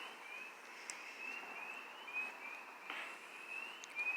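A steady series of short, high peeps, each sliding upward, two to three a second and faint. This is the round-the-clock sound from the woodline, which the recorder suspects is an electronic bird call or bird repeller.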